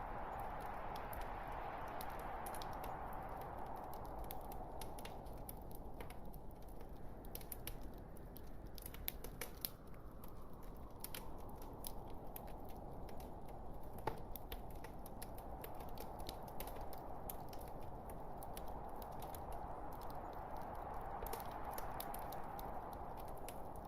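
Log fire burning in a fireplace: a steady hiss with many small, sharp crackles and pops from the logs.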